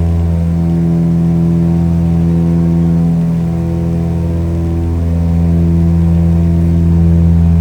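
Airplane engine droning steadily, a low even hum with a stack of overtones and only slight swells in level.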